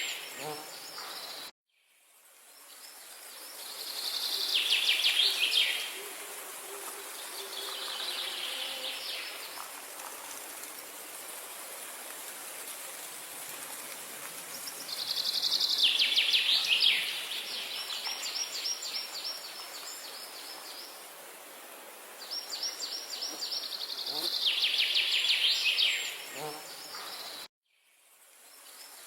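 A songbird singing loud, fast trilled phrases a few seconds apart over a steady outdoor hiss. The sound cuts out completely for a moment twice, near the start and near the end.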